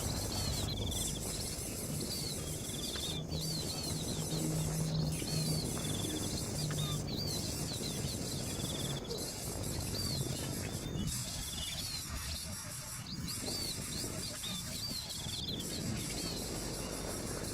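Bird chirping: short, high, hooked chirps repeated over and over, with a brief trill every couple of seconds, over a steady background rustle.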